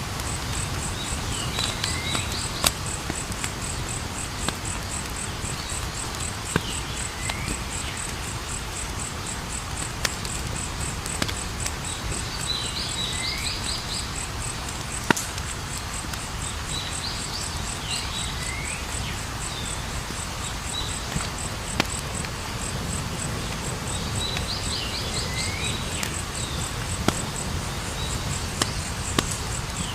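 Campfire burning with a low rumble and occasional sharp crackling pops, under a steady fast cricket trill. A chirping call with quick falling notes repeats about every five or six seconds.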